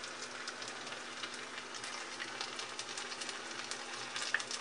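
Battered fish pieces frying in hot oil in a pan: a steady sizzle with many small crackles.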